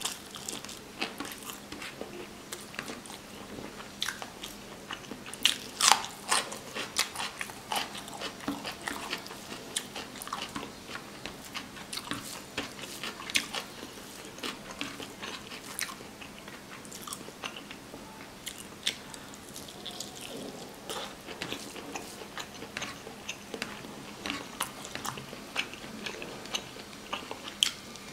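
A man chewing handfuls of yellow rice pulao with chicken and egg curry, close to the microphone. A steady run of wet lip smacks and mouth clicks, busiest and loudest from about five to fourteen seconds in.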